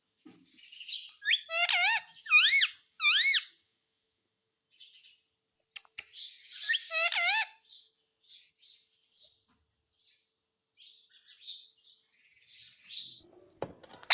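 Indian ringneck parrot calling: a quick run of four short rising-and-falling calls, then after a pause a busier burst of calls and chatter, trailing off into soft scattered chirps.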